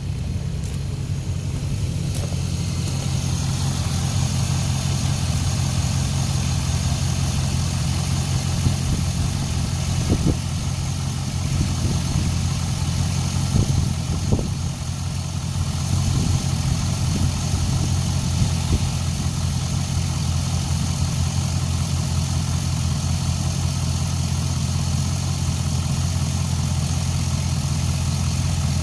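2005 Chevrolet SSR's 6.0-litre LS2 V8 idling steadily.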